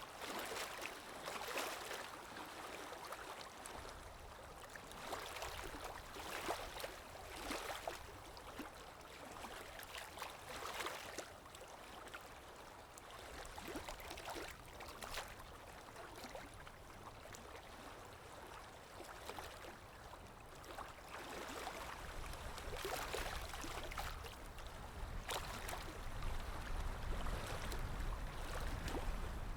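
Underwater water ambience: bubbling, gurgling water that swells in irregular surges every second or two, with a low rumble building over the last several seconds.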